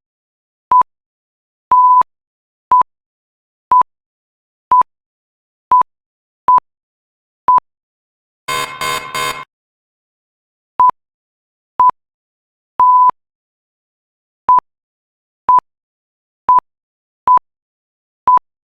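Quiz countdown timer beeping about once a second with short, single-pitched electronic beeps. About 8.5 s in, a harsh buzzer sounds three quick pulses as time runs out on the question, and then the beeping starts again for the next one.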